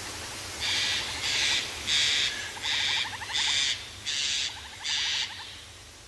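Jungle ambience: a bird call repeated seven times, about two-thirds of a second apart, stopping a little after five seconds in, with a faint, fast trill underneath.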